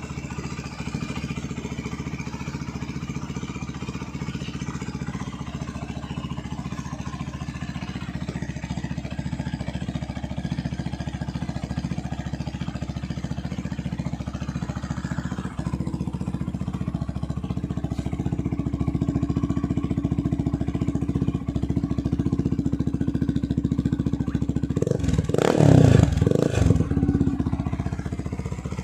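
Benelli Leoncino 250 SE motorcycle, its single-cylinder engine running steadily with its exhaust heat-wrapped. It is blipped twice with quick revs near the end.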